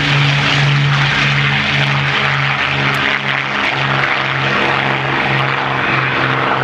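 Douglas A-1 Skyraider's big radial piston engine running at low power on the ground after landing, its propeller drone pulsing steadily about two to three times a second.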